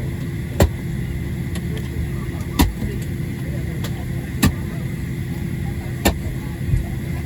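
Steady hum of a parked Boeing 737-700's cabin air supply during boarding, with a faint whine in it. Four sharp knocks or clicks stand out, about two seconds apart.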